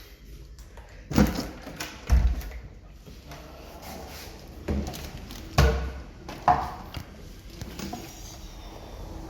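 Several sharp knocks and thumps at irregular intervals, two close together about a second in and two more past the middle, over a low steady background.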